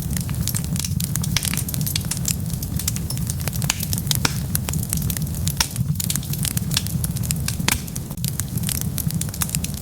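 Wood fire crackling, with many sharp pops and snaps several times a second over a steady low rumble.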